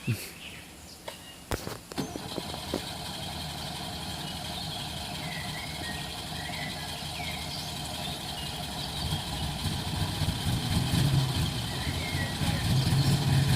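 A 1980 Peugeot J9 van's engine running after a cold start on a new battery, getting steadily louder with a deepening rumble over the last few seconds. A few sharp clicks come in the first couple of seconds.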